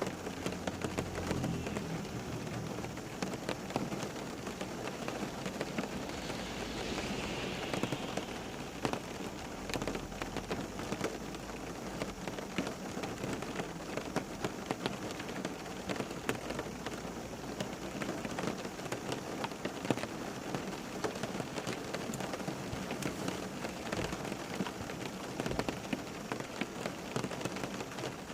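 Steady rain falling and pattering on surfaces, with many fine drop impacts and a faint low rumble near the start.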